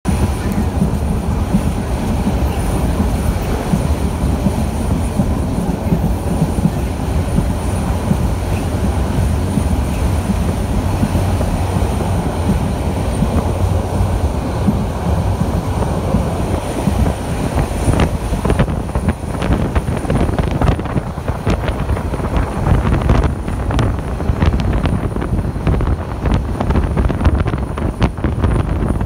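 Passenger train running at speed, heard from an open carriage window: a loud, steady rumble of the wheels and carriage. From about two-thirds of the way through, rapid clattering knocks of the wheels on the track join in.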